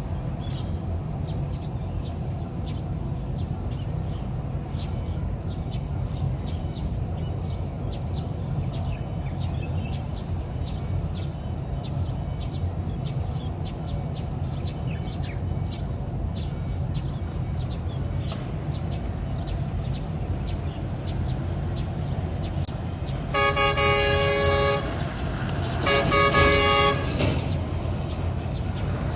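A vehicle runs with a steady low rumble, and near the end its horn sounds twice, each blast about a second and a half long.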